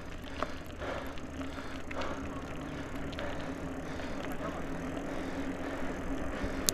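Mountain bike rolling along a forest trail: a steady rumble of tyres on dirt with scattered light clicks and rattles from the bike.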